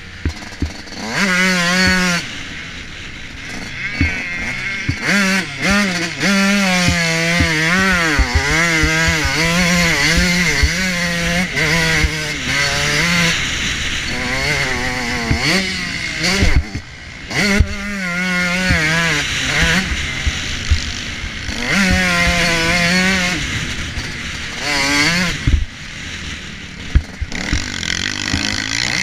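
Motocross bike engine revving hard, its pitch repeatedly rising and falling as the throttle opens and shuts and the gears change, with wind noise and frequent short knocks.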